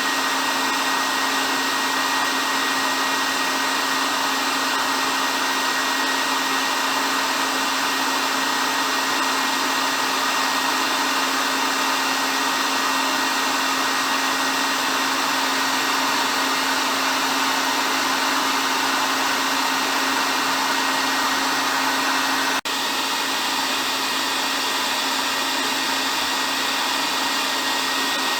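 Hair dryer running continuously: a steady, even blowing rush with a low hum and a higher whine through it. About three quarters of the way in the sound drops out for an instant, and after that the low hum is gone.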